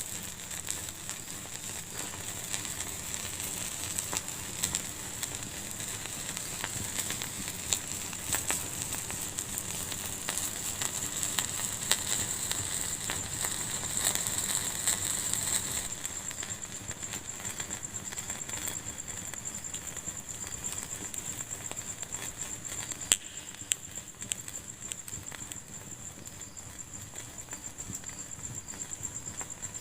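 Fire in a fireplace crackling and hissing steadily, with dense small pops and a few louder snaps. The hiss eases a little about halfway through.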